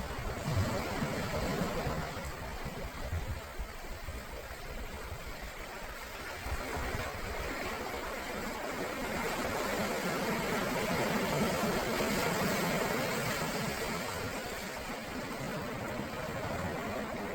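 Sea waves breaking and washing onto the shore: a steady rush of surf that swells to its loudest about two-thirds of the way through and then eases, with a few low thumps in the first few seconds.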